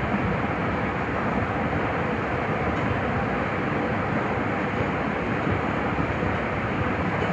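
Nagoya subway 5050-series electric train running between stations: a steady rumble of wheels on rail and running gear, even in level throughout.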